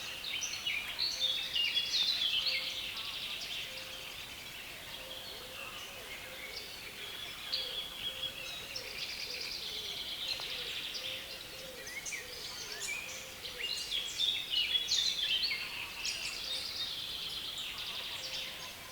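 Songbirds in a reedbed singing in a dense, continuous chorus of overlapping chattering, scratchy phrases over a steady background hiss. It swells loudest about two seconds in and again around three quarters of the way through.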